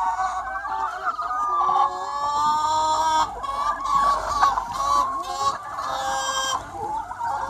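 A large flock of free-range hens clucking and calling over one another, with several louder, shriller calls standing out from the steady chatter.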